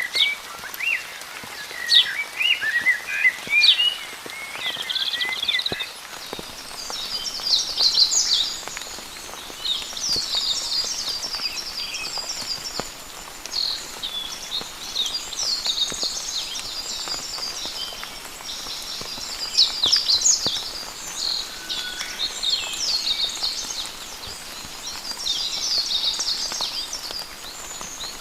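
Several songbirds chirping and trilling, with lower chirps in the first few seconds and then fast high twittering throughout. Behind them is a faint hiss of light rain with scattered drops.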